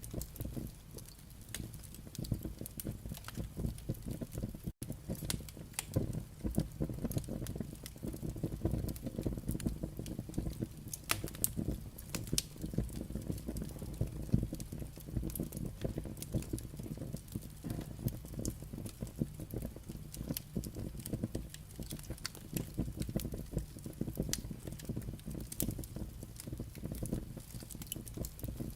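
Burning firewood crackling, with frequent sharp pops and snaps over a low steady rumble of the fire.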